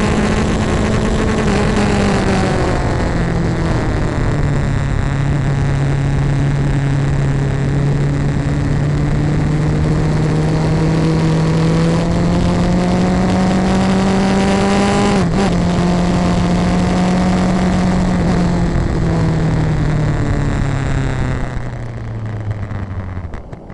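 A motor vehicle's engine running under way, its pitch dropping a couple of seconds in, then climbing slowly. There is a brief break about fifteen seconds in, and the pitch then falls as it slows, quietening near the end.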